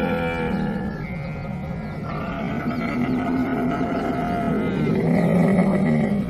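Camel calling: long, drawn-out, low pitched calls with a rough edge, running on without a break and stopping abruptly near the end.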